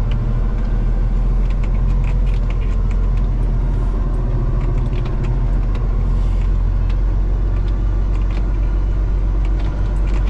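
Semi-truck's diesel engine running steadily at driving speed, a deep drone with light clicks and rattles over it.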